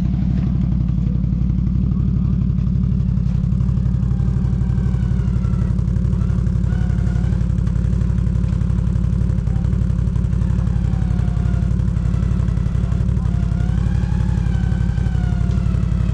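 Quad bike engine running steadily at low revs, a continuous low drone. From about four seconds in, fainter wavering tones rise and fall above it.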